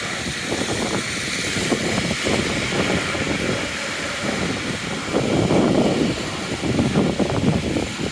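Wind buffeting a wired clip-on microphone, an irregular rumbling that grows stronger about five seconds in, over a steady hiss.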